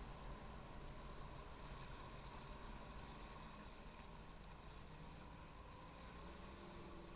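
Jet ski engine running steadily, heard faintly as a low hum under a steady whine.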